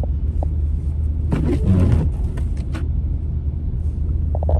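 Steady low rumble of a truck's engine and tyres, heard from inside the cab while driving slowly on a snow-covered road, with a short burst of clatter about a second and a half in.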